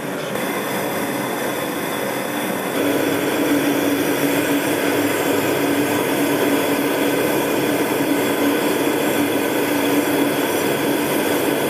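Loud, steady mechanical rumble and hiss with several constant hums. A stronger low hum comes in about three seconds in and holds steady.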